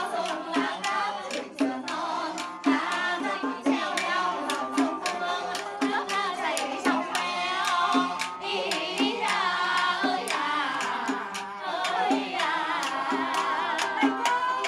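Vietnamese folk singing in the Hát Văn or Xẩm style: a wavering, ornamented voice over a steady beat of sharp percussion clicks, about two a second.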